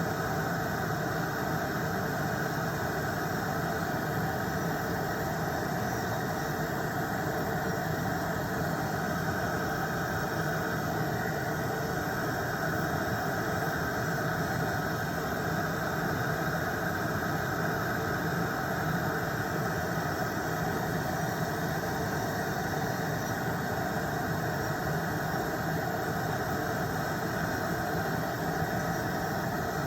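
Electric nail drill (e-file) running at a steady speed, a constant high whine over an even hiss, as it files gel off a nail.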